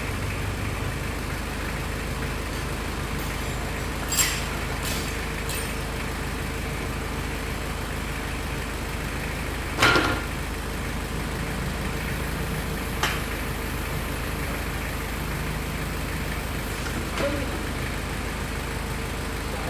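Car engine idling steadily, with a few short clicks and knocks on top, the loudest about ten seconds in.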